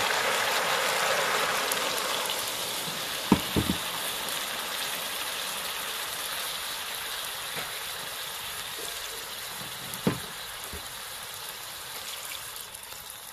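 Pork and taro frying in a wok: a steady sizzle that slowly dies down, with a few short knocks about three seconds in and again about ten seconds in.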